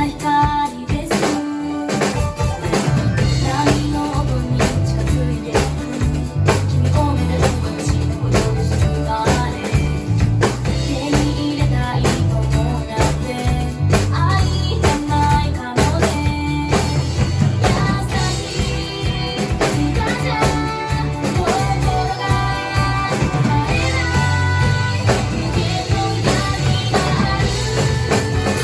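Pop-rock song with a female singer, guitar and bass, with a live drum kit played along to it. The kit drives a steady beat with frequent snare and cymbal hits.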